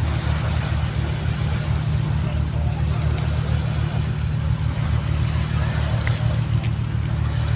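Ship's diesel engines running with a steady low drone.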